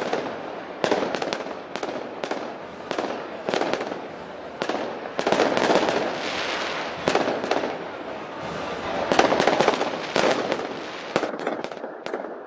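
Festival gunpowder bangs going off repeatedly at irregular intervals, some in quick clusters, over a continuous noisy background.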